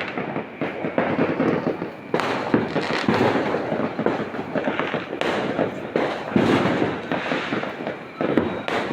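Many New Year's fireworks and firecrackers going off at once: a dense, continuous crackle of overlapping bangs.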